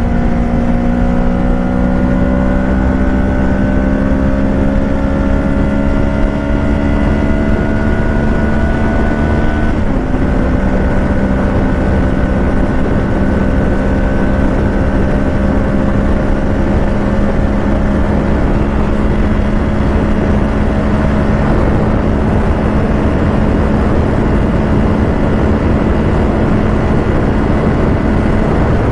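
Kawasaki Ninja 650 parallel-twin engine through a Shark SRC-4 full exhaust, pulling at highway speed. Its pitch climbs slowly for about ten seconds, then drops at a gear change and holds nearly steady. Wind and road noise run underneath.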